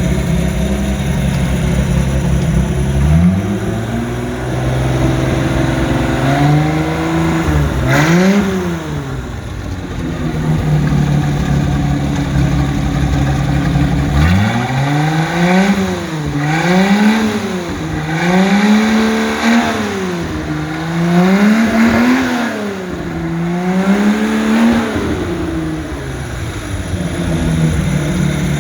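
1989 MerCruiser 4.3-litre Chevy V6 marine engine with a Holley 4-barrel carburetor running: it idles, is brought up to a higher speed and revved twice, drops back to idle, then is blipped in a series of about half a dozen quick revs, each falling back, before settling to idle again.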